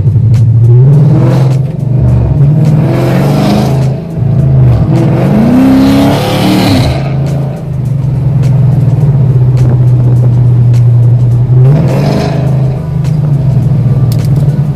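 Loud car engine running and revving: a steady low drone whose pitch climbs and drops several times, highest about six seconds in, with rushes of noise around three, six to seven and twelve seconds in.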